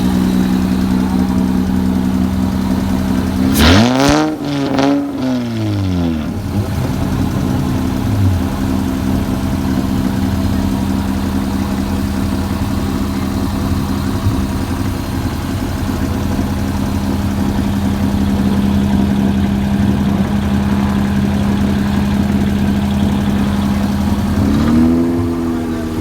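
Car engine idling steadily, revved briefly about four seconds in with the pitch jumping up and falling back to idle, then blipped once more lightly near the end.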